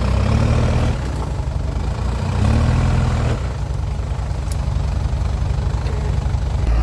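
Off-road 4x4 engine running at a low idle, revved up briefly twice in the first few seconds.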